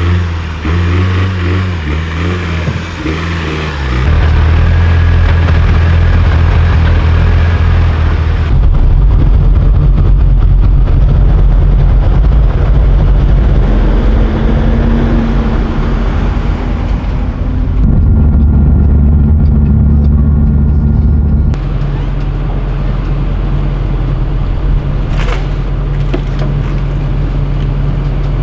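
Car engine and road noise, a loud steady drone whose pitch and level change abruptly several times.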